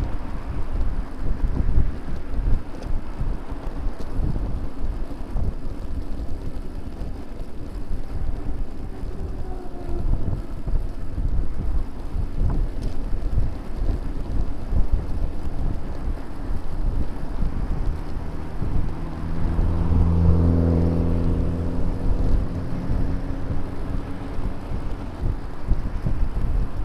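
Wind buffeting the microphone of a bicycle-mounted camera while riding in traffic. About twenty seconds in, a motor vehicle passes close by, its engine hum swelling and then fading.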